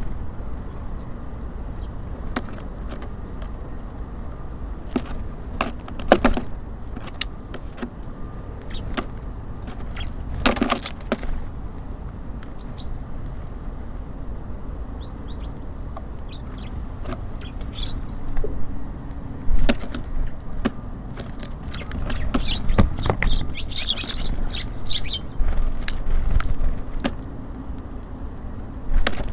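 Small songbirds at a bird feeder giving short high chirps, mostly in the second half, among scattered sharp taps and clicks, over a steady low rumble of city traffic.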